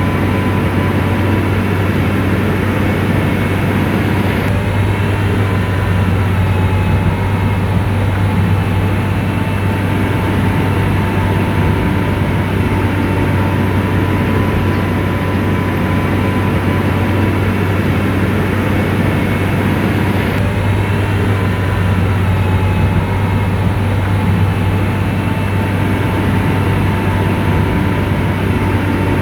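Komatsu bulldozer's diesel engine running steadily with a deep hum, a thin steady whine held above it.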